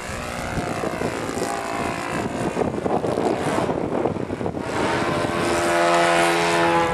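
Radio-controlled 3D aerobatic model plane's engine and propeller buzzing in flight, its pitch gliding in the first couple of seconds, then settling into a steady hum that grows a little louder toward the end.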